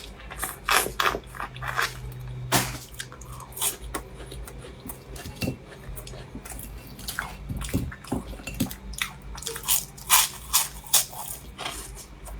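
Close-miked chewing of a pastry: irregular wet mouth clicks and smacks, with a cluster of louder ones near the end.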